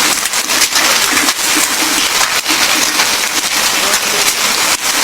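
Heavy rain and hailstones pelting a hard surface: a dense, steady hiss broken by many sharp hits.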